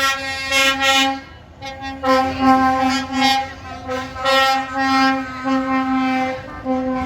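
A lorry's air horn sounding a series of about six single-pitch blasts, each half a second to a second long with short breaks between, over the low rumble of passing trucks.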